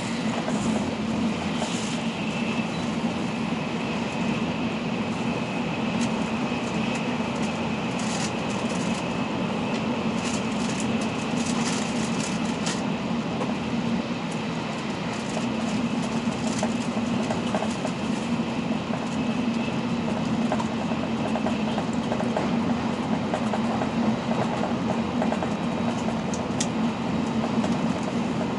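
N700 series Shinkansen running at speed, heard from inside the passenger car: a steady rumble of wheels and rushing air with a faint high whine, and a cluster of light clicks midway.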